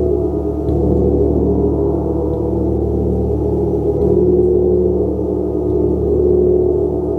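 Gong being played continuously: a loud, dense wash of many overlapping sustained tones, renewed by soft strikes about every second and a half.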